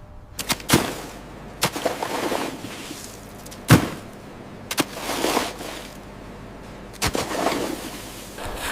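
A series of sharp knocks or cracks, about five in all and irregularly spaced, the loudest a little before the middle, each followed by a brief rasping or crunching noise.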